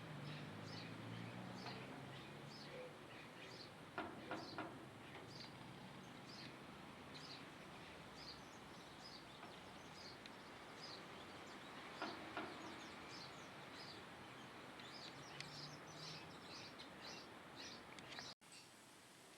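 Small bird chirping over and over, short high chirps about twice a second, faint against background hiss. Twice a quick run of three sharp clicks cuts in.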